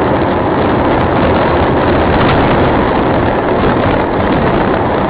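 Steady, loud road and engine noise of a moving car, picked up by a dashcam's built-in microphone.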